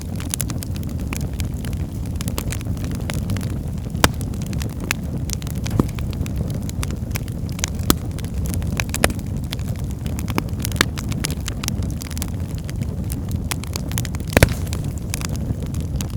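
Wood fire burning in a fireplace: a steady low rumble of flames with frequent sharp crackles and pops, two of them louder, about four seconds in and near the end.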